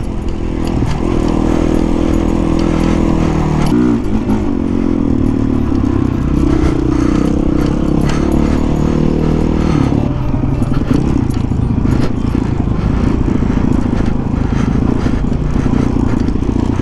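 Honda CRF450 dirt bike's single-cylinder four-stroke engine running under load on a trail, its pitch rising and falling as the throttle opens and closes, with a clear change about four seconds in and again about ten seconds in. Scattered rattles and clatter from the bike over rough ground.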